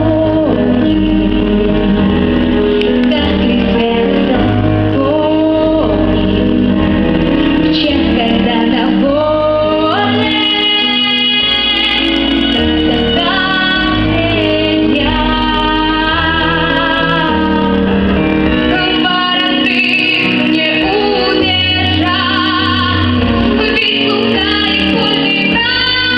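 A female voice singing a song with vibrato over an instrumental backing track with a pulsing bass line.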